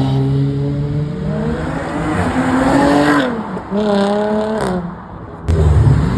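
A car engine accelerating away, its pitch rising, dipping at a gear change about three seconds in, then rising again before fading. Near the end a louder, deeper engine note cuts in suddenly.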